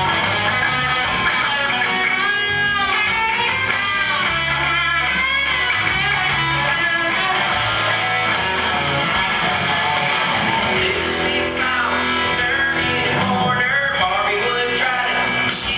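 A song performed live: guitar strummed steadily, with a voice singing in places.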